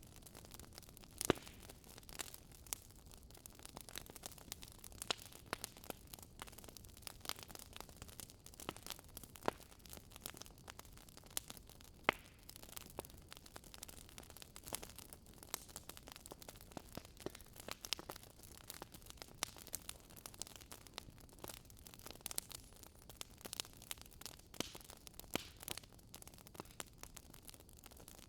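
Wood fire burning in a fireplace: steady soft hiss with irregular sharp crackles and pops of the logs, a louder pop about a second in and another near the middle.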